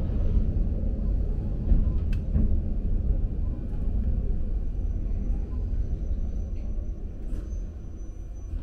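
Toyama Chihō Railway electric train running with a steady low rumble that gets a little quieter toward the end as it slows to a stop. A faint thin high whine runs through the second half.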